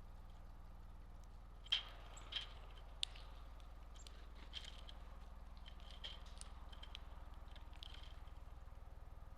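Birds at a backyard feeder: a scattering of short sharp chips and taps, the loudest two or three coming close together about two seconds in, over a steady low hum.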